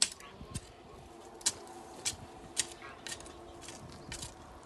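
A hoe chopping into garden soil to dig planting holes: a series of sharp, irregular strikes about every half second.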